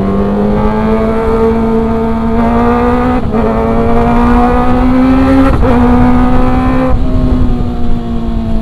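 Kawasaki ZX-25R's 249 cc inline-four engine pulling hard under way, its pitch climbing steadily and broken briefly twice, about three and five and a half seconds in, as it shifts up. Near the end the throttle eases off and the pitch drops and begins to fall.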